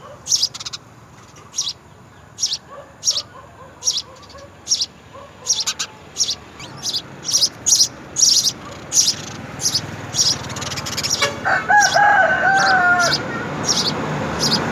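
Small birds chirping in short, high, repeated notes, about one to two a second. About twelve seconds in, a rooster crows once, a wavering call lasting about a second and a half.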